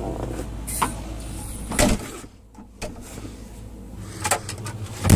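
Clunks and knocks of controls and fittings being handled inside a combine cab, with a low steady hum that stops with a clunk about two seconds in; the loudest knock comes at the end.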